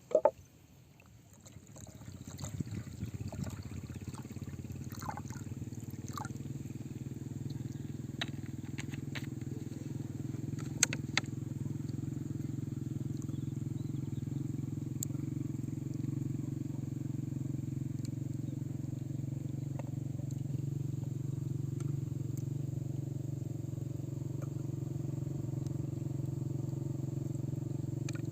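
Campfire flames catching and then burning steadily with a low rumble, with a few sharp crackles. A short loud sound right at the start, after which the fire noise builds over about two seconds.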